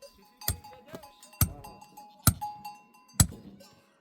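Four hammer blows at a steady pace, about one a second, each with a bright ringing tone after it.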